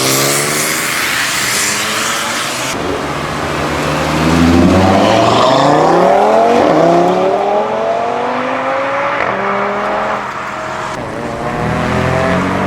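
Modified performance cars accelerating hard one after another, engine pitch climbing, dropping at gear changes and climbing again. The loudest pull comes about four to seven seconds in.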